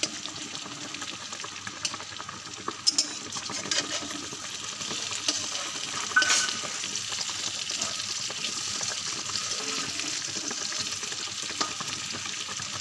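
Shrimp chops sizzling as they shallow-fry in hot oil in a metal kadai. A metal spatula scrapes and clicks against the pan now and then as the chops are turned, most sharply about six seconds in.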